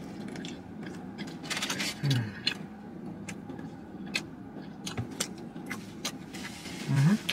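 A man chewing a bite of chicken sandwich, with crackles from the paper wrapper and two short hummed "mm"s, one about two seconds in and one near the end. A steady low hum from the car cabin runs underneath.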